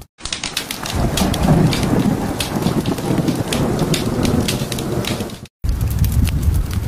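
Rain falling with a rolling rumble of thunder, set between two abrupt near-silent cuts. About five and a half seconds in it switches to a crackling fire with a low roar.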